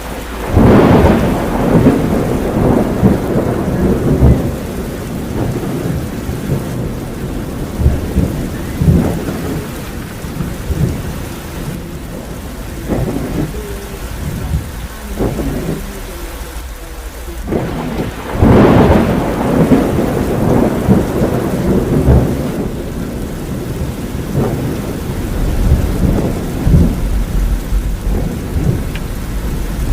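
Heavy rain pouring down hard, a dense, uneven patter of drops with heavier surges about a second in and again near the middle.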